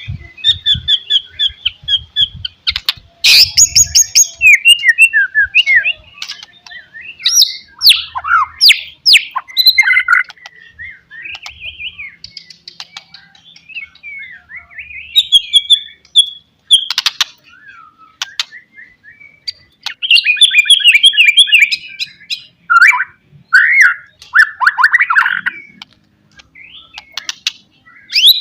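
White-rumped shama singing a varied song of whistled phrases, quick trills and harsh chips. It comes in bursts with short pauses between them.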